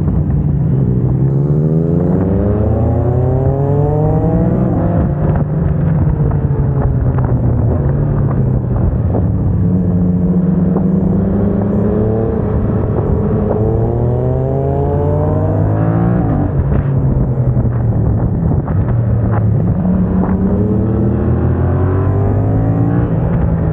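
Yamaha MT-07's parallel-twin engine through a MIVV aftermarket exhaust, accelerating hard with the pitch climbing and then dropping sharply about four times at quick gear changes made with a HealTech quickshifter.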